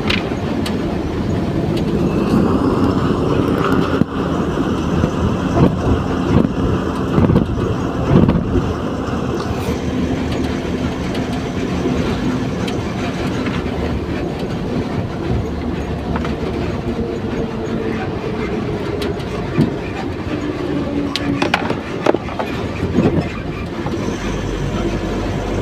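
Steady, loud rumble of a heavy vehicle, with scattered knocks and a faint whine in the first half.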